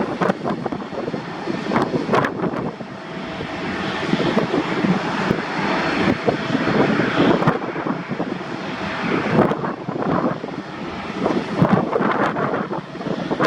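Airliner engine noise from a passing aircraft: a loud, steady noise that rises and falls in level.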